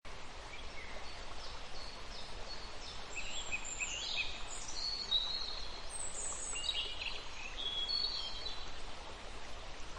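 Small birds chirping and whistling, with short calls coming and going, over a steady outdoor background hiss.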